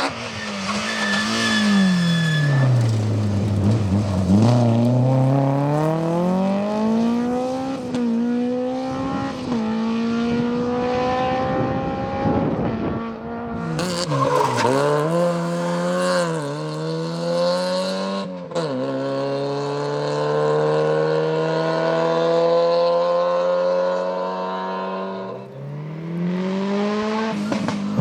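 Rally car engines at full throttle, the pitch climbing through each gear and dropping back at every shift, with a brief squeal of tyres. The sound breaks off sharply a few times as one car's run gives way to another's.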